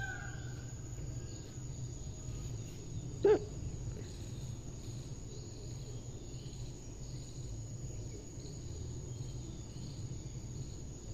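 A single short, loud peacock call about three seconds in, over a steady low hum and faint high chirping of birds or insects.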